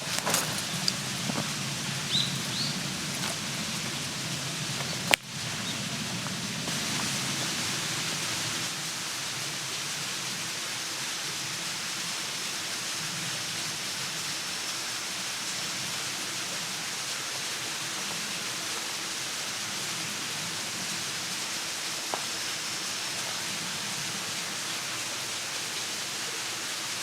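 Steady outdoor hiss, even and without distinct events, with one sharp click about five seconds in.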